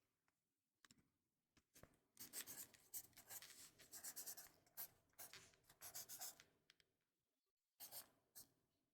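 Writing on paper, scratchy strokes in quick succession, with a dense run from about two to seven seconds in and a few more strokes near the end.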